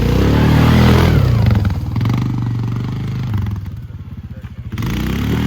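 Four-wheeler (ATV) engine revving up and running hard, easing off about four seconds in, then picking up again near the end.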